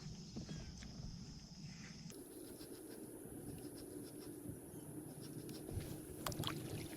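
Faint riverside ambience: a steady high insect chirring, shifting higher about two seconds in, with scattered small clicks and scratches of handling.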